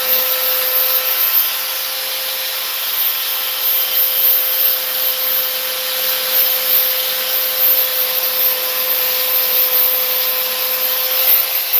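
Power sander running steadily against fiberglass body work, a constant motor whine over the hiss of abrasive rubbing.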